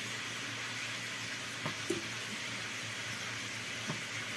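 Chicken and pineapple rings sizzling steadily in a frying pan in their reduced sauce, with a few faint knocks as kitchen tongs move the pieces.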